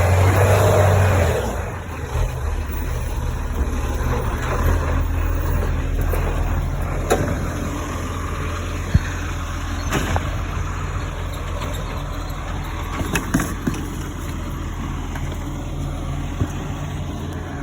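Garbage truck engine running steadily, louder for the first second or so and then settling lower, with a few sharp knocks.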